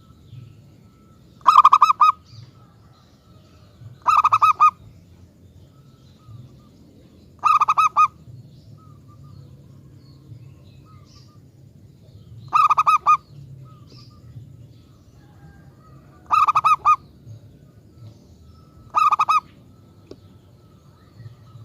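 Zebra dove (perkutut) cooing: six short, rippling coos a few seconds apart, over a faint steady low hum.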